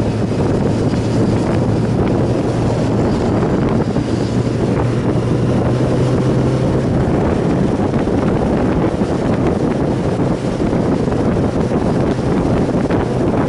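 Wind rushing over the microphone of a moving sport motorcycle, with a steady engine drone underneath that rises slightly about four seconds in and drops back a few seconds later.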